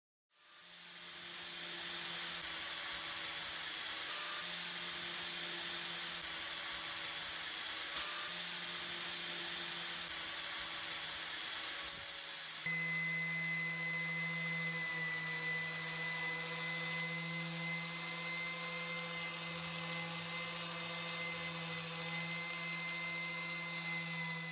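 An electric power tool starts up and runs steadily. About halfway through, the sound changes to a steadier whine with a clear high tone.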